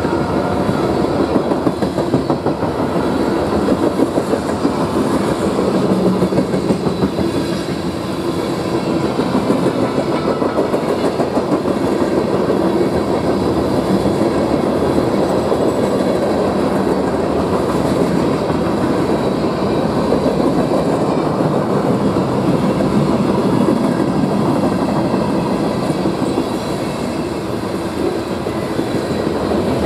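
Freight train cars passing close by at speed: a steady rolling noise of steel wheels on rail with a rapid clickety-clack.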